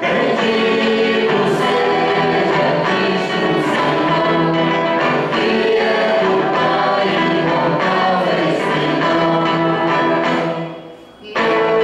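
Choir singing a hymn with instrumental accompaniment. Near the end the music dies away for a moment, then starts again at full level.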